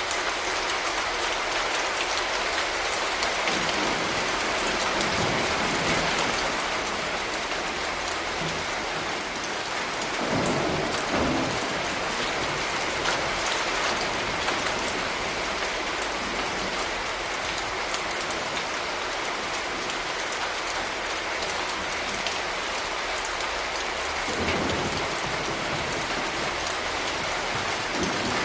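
Steady rain falling in a city, an even wash with fine ticks of individual drops. Brief low rumbles swell about ten seconds in and again near the end.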